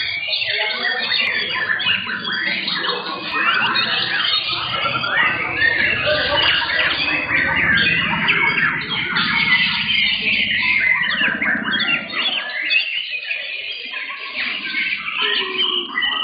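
Several white-rumped shamas (murai batu) singing at once, a dense tangle of overlapping whistles, chirps and rattling phrases, over a low background murmur.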